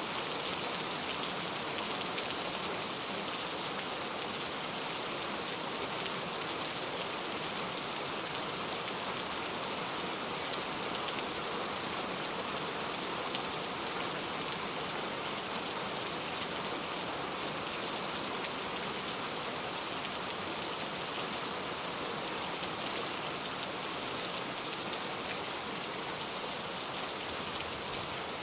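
Steady rain falling: an even hiss with occasional separate drop ticks.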